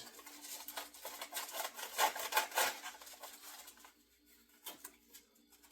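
A rapid run of rubbing and scraping strokes on wood, with small knocks mixed in, for about four seconds, then a few faint clicks.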